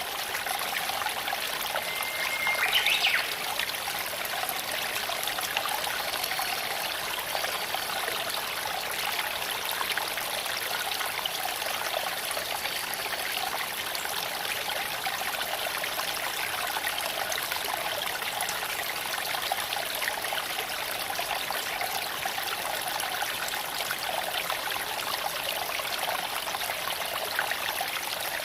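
Creek water flowing and trickling over stones, a steady babbling rush. A brief high chirp cuts through about three seconds in.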